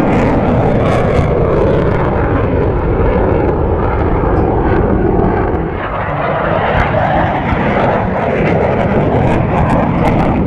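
Airplane engine noise from a passing aircraft, loud and steady, easing slightly about six seconds in before building again.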